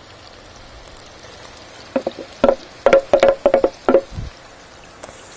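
Baked beans being added to a cast iron pot: a quick run of metal clinks and taps over about two seconds, then a soft thud, over a faint steady hiss.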